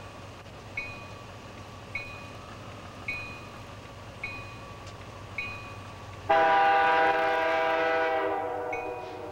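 Grade-crossing warning bell dinging about once a second, then a freight locomotive's air horn sounds one long, loud chord about six seconds in that trails off near the end.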